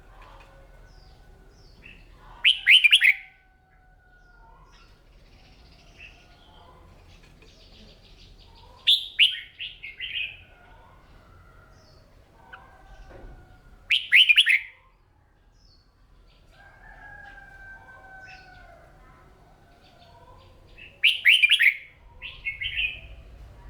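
Red-whiskered bulbul singing in short, loud, quick warbled phrases, four of them spaced several seconds apart, with fainter whistled calls between them.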